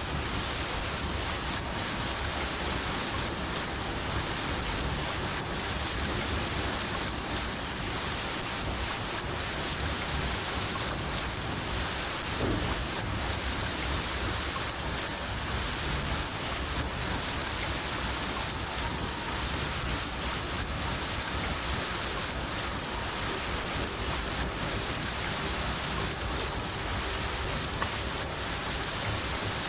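A cricket chirping steadily, about three high-pitched chirps a second with a brief pause near the end, over the even hiss of steady rain.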